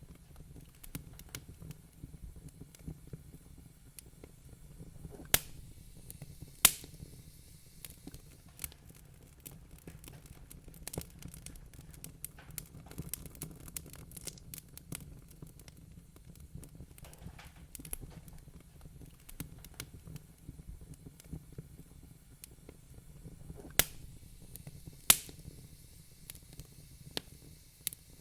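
Wood fire crackling in a fireplace: a steady run of small snaps over a low, even rumble, with a few much louder pops, two about five to seven seconds in and two more near the end.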